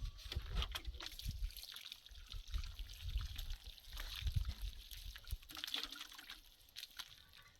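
Water trickling or being poured, among scattered small clicks and knocks, with bouts of low rumbling.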